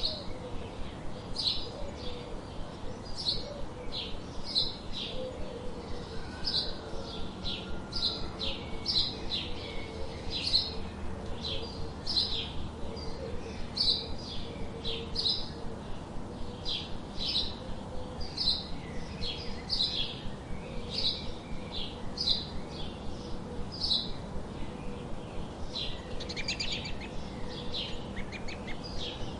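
Songbirds chirping: a long series of short, sharp, high chirps about one or two a second, with a fluttering trill near the end.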